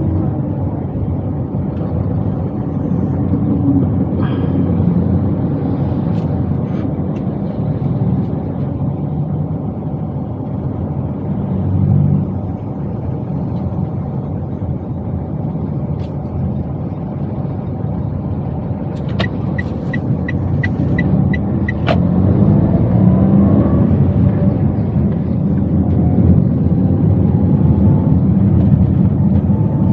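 Toyota Wigo heard from inside the cabin on the move: steady engine and road rumble, with the engine note rising and getting louder as the car accelerates in the second half. A short run of light, evenly spaced ticks comes about two-thirds of the way in.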